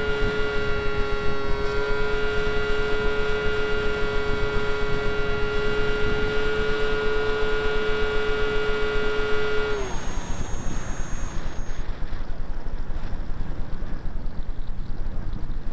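Brushless electric motor and 7x6 propeller of a Skyartec Skyfun RC flying wing, heard from the onboard camera as a steady whine with wind rushing over the microphone. About ten seconds in the motor's pitch drops and it stops, leaving only the wind noise.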